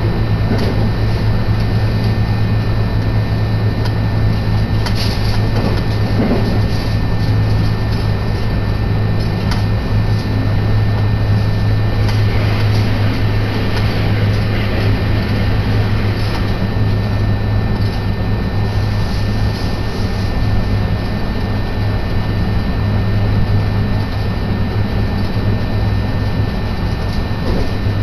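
Commuter electric train running at speed, heard inside the carriage: a steady rumble of wheels on rails with a low hum.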